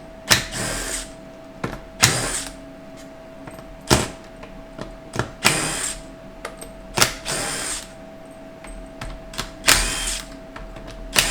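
A handheld power tool run in about six short bursts, a second and a half to two seconds apart, with single clicks between, as bolts are run out of a 4L60E automatic transmission on the bench.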